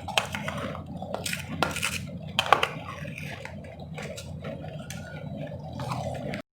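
Close-miked ice eating: sharp crunches and clinks of hard, fruit-flavoured ice, strongest in the first few seconds, then softer chewing of the blended powdery ice. The sound cuts off abruptly just before the end.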